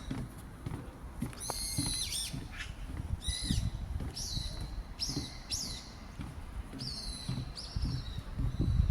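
Birds calling: a series of short, high chirps that slide downward, roughly one a second, over a low, uneven rumble.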